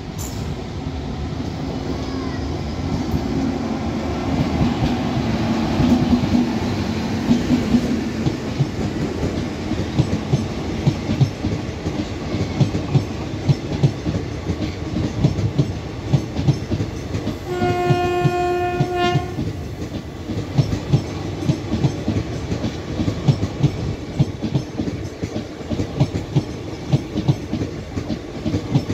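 Electric-hauled train of blue covered vans passing at speed: a rumble that builds as it approaches, then a rapid, steady clickety-clack of wheels over rail joints. Partway through, one steady train horn blast lasts under two seconds.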